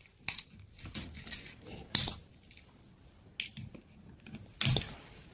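Scissors and hands working at the winding wire of an old refrigerator compressor's motor coil: about four short, sharp metallic snips and clicks a second or more apart, with light scraping between them.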